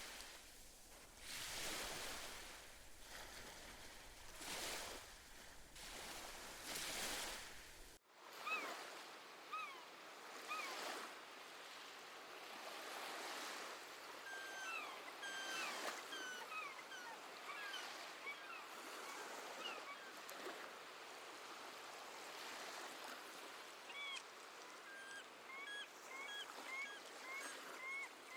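Waves washing onto the shore in a slow series of rolling surges. About eight seconds in the sound cuts abruptly to a quieter, lighter surf with many short, repeated seabird calls over it.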